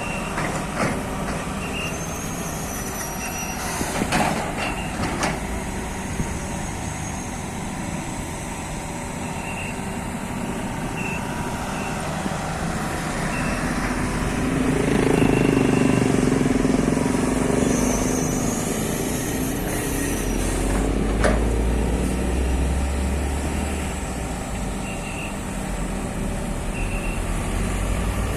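Hydraulic excavator's diesel engine running under working load, louder for a few seconds in the middle, with a short high warning beep about every second and a half. A few sharp knocks are heard, one early and one past the middle.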